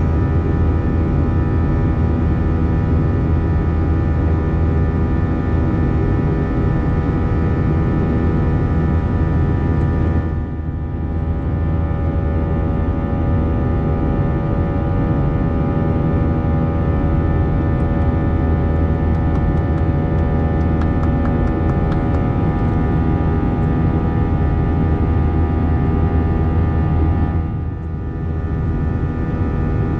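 Airbus A321 cabin noise: a steady jet-engine drone with a stack of steady hum tones over a rushing haze, dipping briefly twice, about ten seconds in and near the end.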